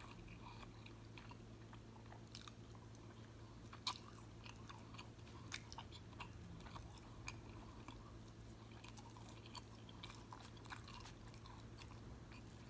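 Quiet, close-up mouth sounds of a man chewing a soft taco: scattered small wet smacks and clicks, one a little louder about four seconds in.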